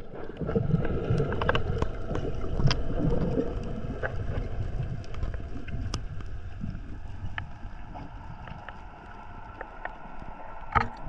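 Steady low rumbling water and wind noise on the microphone, scattered with small clicks and knocks, slowly fading.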